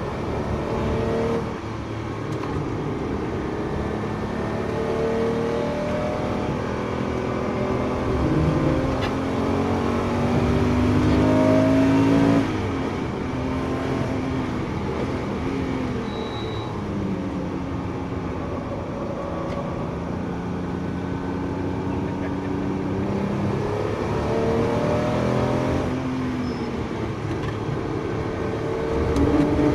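Porsche 911 GT3's flat-six engine heard from inside the cabin under hard acceleration on track, its pitch climbing and dropping back with each gear change. About twelve seconds in the engine note drops off abruptly as the driver lifts, then it picks up and climbs again, growing louder near the end.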